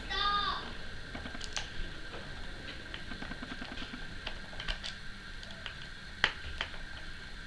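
Small irregular metallic clicks and ticks as a bipod's swivel-stud mount and screw are handled and fitted to a rifle stock, the sharpest click about six seconds in. A brief high-pitched cry is heard at the very start.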